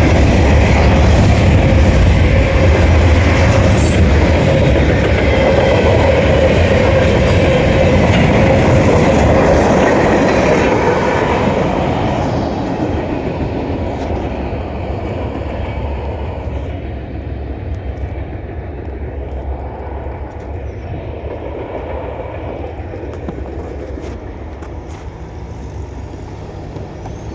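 Freight cars of a CSX mixed train (autoracks and intermodal container cars) rolling past, their wheels clacking over the rail joints. The sound is loud for about the first ten seconds, then fades steadily as the train moves away.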